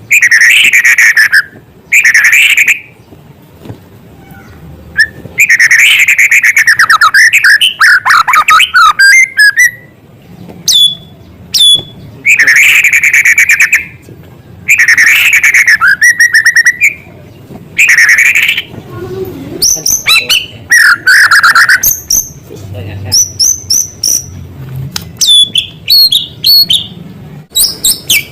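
White-rumped shama singing loudly in repeated phrases of rapid buzzy trills and clear whistles, with a few sharp downward-sweeping notes, each phrase broken off by a short pause.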